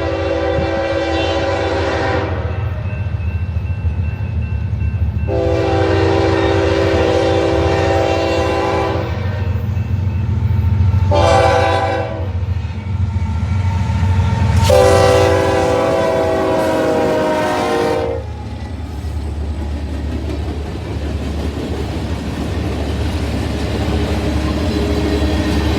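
Union Pacific freight locomotive's horn blowing the grade-crossing signal: long, long, short, long, the final blast ending about two-thirds of the way in. Under it the train's steady low rumble continues.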